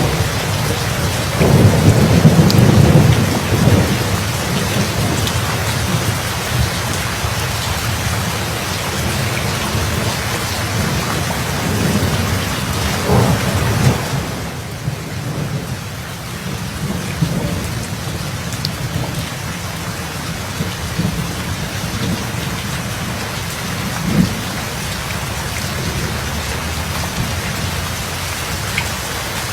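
Steady rain falling in a thunderstorm, with rolling thunder rumbles that peak about two seconds in and again around the middle. About halfway the sound shifts abruptly to a softer, duller rain with only a faint rumble.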